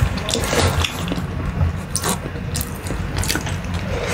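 Close-miked eating sounds: a mouthful of spicy fried instant noodles being chewed, with repeated short wet smacks and clicks.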